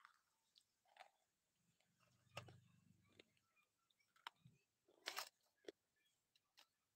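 Faint close-up eating sounds: soft clicks of the mouth and a few small bites and chews on a hard, crunchy lump. The sharpest crunch comes about five seconds in.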